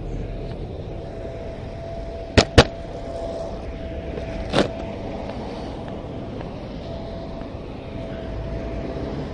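Car driving, steady engine and road noise with a faint steady whine, broken by two sharp clacks a fraction of a second apart about two and a half seconds in and a softer one about two seconds later.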